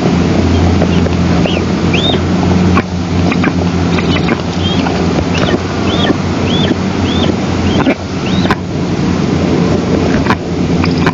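Steady low hum and rumble on the eagle nest camera's microphone, with a run of short, high, arched bird calls repeated about twice a second for several seconds, and a few sharp knocks.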